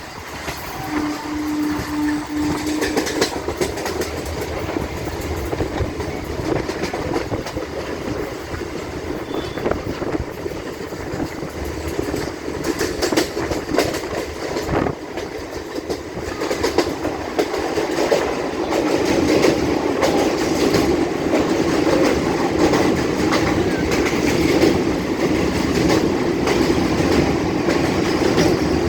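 Patliputra Express running at speed, heard from on board: wheels clattering steadily over the rails. The clatter grows louder about two-thirds of the way through.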